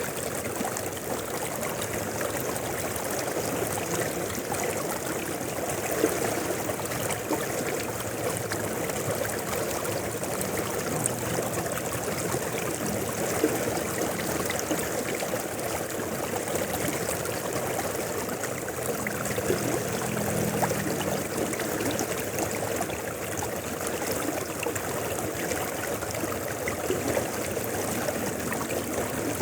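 Mountain river flowing steadily, a continuous rush of water with small splashes.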